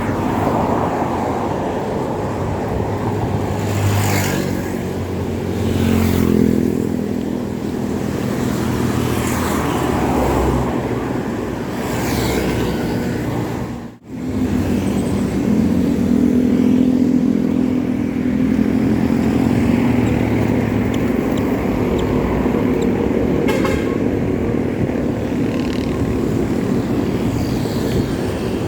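Busy highway traffic heard from a bicycle: cars and motorcycles running past, their engine hum swelling and fading. The sound cuts out for an instant about halfway through.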